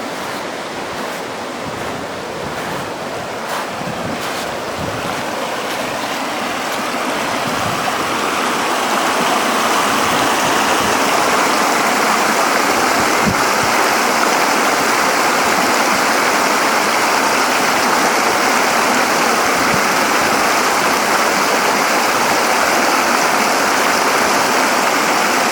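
Rushing water of a waterfall cascading over rock: a steady, even roar that grows louder about eight seconds in and then holds.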